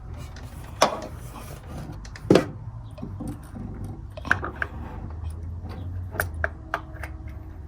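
Clicks and clinks of a new spark plug and ratchet socket extension being handled. Two sharp knocks come in the first two and a half seconds, the second one loudest, followed by a run of lighter clicks.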